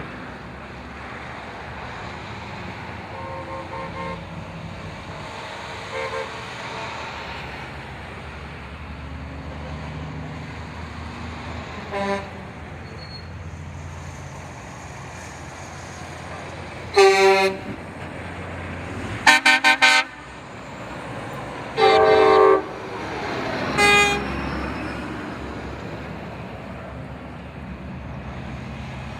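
Tow truck horns honking over the steady low rumble of passing truck engines: a few short toots, then louder blasts in the second half, including a quick run of short beeps.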